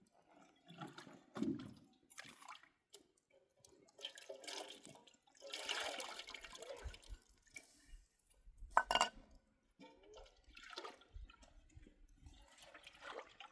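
Water being splashed and poured in irregular bursts, with a louder splash about nine seconds in.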